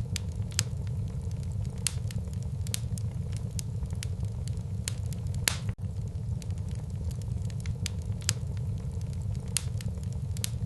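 Wood fire burning in a fireplace: a steady low rumble of flames with frequent, irregular sharp crackles and pops, one louder pop about halfway through.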